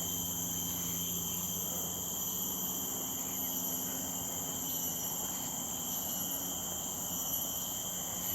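Tropical forest insect chorus: several high-pitched steady tones sounding at once and held without a break, with a faint steady low hum beneath.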